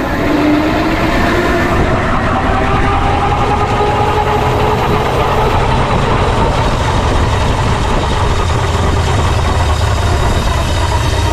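A 6-inch scale Foden C-type steam wagon running along the road, with a steady rumbling drive noise. A whine rises in pitch over the first few seconds as it picks up speed.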